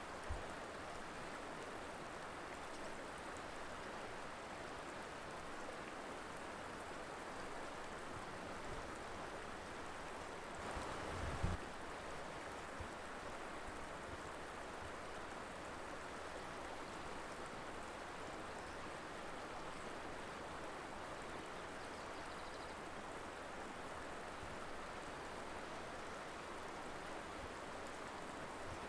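Colorado river flowing with a steady rushing sound, and a short low thump about eleven seconds in.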